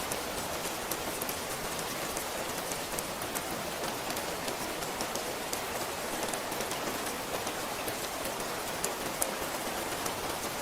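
Steady rain falling, with many sharp little drop ticks over a constant wash.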